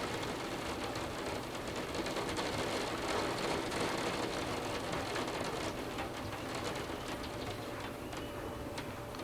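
Torrential rain pouring down steadily in a heavy downpour, easing off slightly toward the end.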